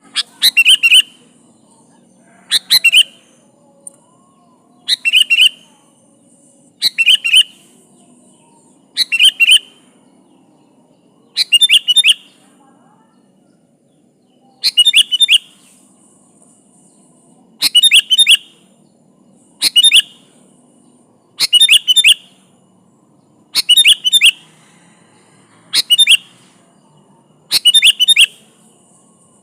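Sooty-headed bulbul (kutilang) singing vigorously: short, bright phrases of a few quick notes, repeated about every two seconds.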